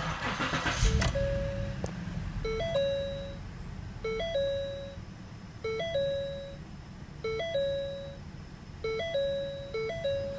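Ford 3.5L V6 engine starting in its first second, then running at a steady idle. Over it a vehicle warning chime sounds six times, a quick stepped rise of three notes and a held tone, about every second and a half.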